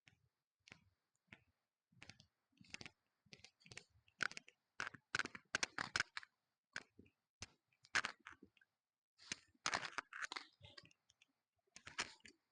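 A series of irregular sharp clicks and short scraping sounds of close-up handling, coming in uneven clusters with brief silent gaps.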